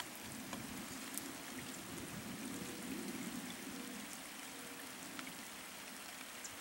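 Light rain falling steadily as a soft hiss, with scattered drops ticking close by.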